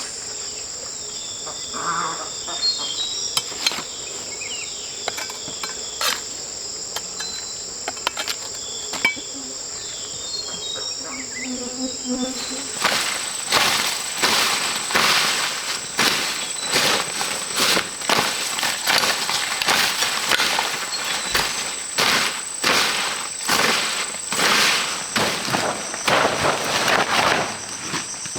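Steady high-pitched drone of insects in the forest, with scattered knocks and scrapes of work in the first half and a busy run of repeated scuffing and knocking strokes from about halfway through.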